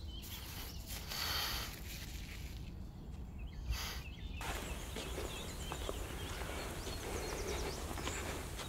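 Outdoor forest ambience: a steady low rumble of wind on the microphone, and from about halfway on, faint short bird chirps. The background changes abruptly a few times in the first half.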